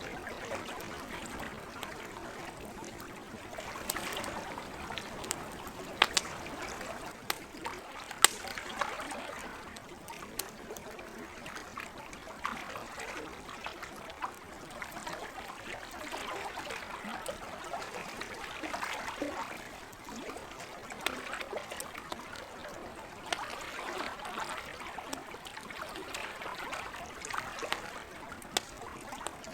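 Campfire crackling with scattered sharp pops, the loudest about six and eight seconds in, over the gentle trickle of lake water.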